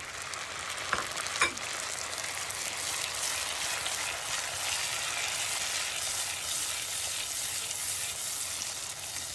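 Chopped canned tomatoes with their juice sizzling in hot butter and olive oil with onions in a pot, stirred with a silicone spatula. Two short knocks come about a second in.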